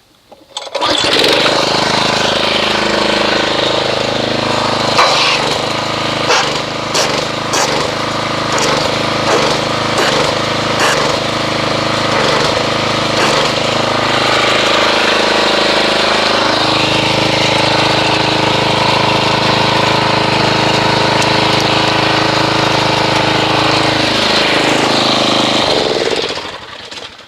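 A pressure washer runs steadily, its jet agitating car-wash soap in a bucket of water to whip up foam. It starts abruptly about a second in, and its motor note dips briefly about halfway through. Near the end it winds down.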